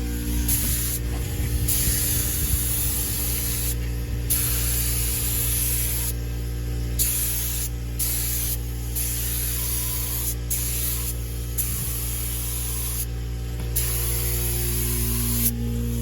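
Air-powered paint spray gun hissing in repeated bursts of one to two seconds with short pauses as the trigger is pulled and released, over the steady hum of a running air compressor.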